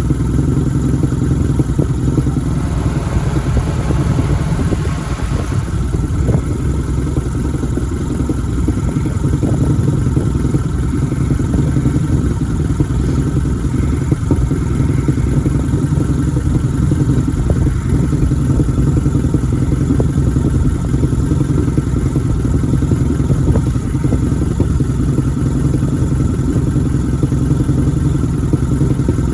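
1987 Nissan engine idling roughly on its first run of the year after sitting.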